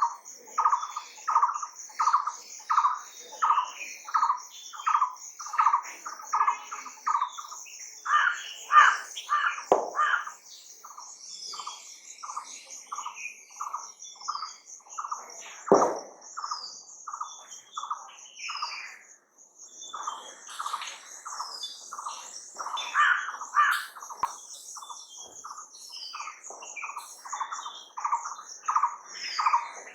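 Birdsong: a short note near the middle of the range repeated over and over, about twice a second, with other chirps mixed in and a steady high, pulsing trill behind. There are two sharp clicks, one about a third of the way in and one just past the middle.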